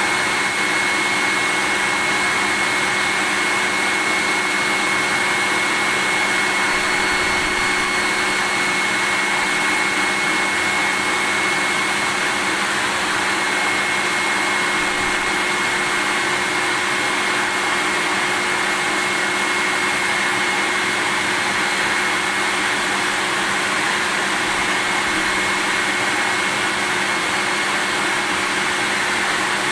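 Vacuum cleaner running at a steady pitch: an even rushing hiss with a high whine on top, unchanging.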